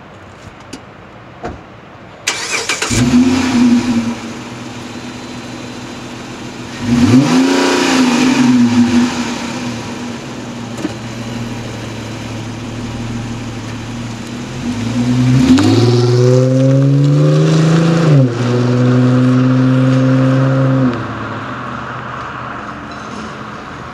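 Exhaust of a 2008 Dodge Charger's 3.5-litre V6 through a stock Daytona muffler and Blastin' Bob's resonators. The engine starts about two seconds in and settles to idle. It is blipped once with a quick rise and fall in pitch, then revved up and held steady for several seconds before dropping back to idle near the end.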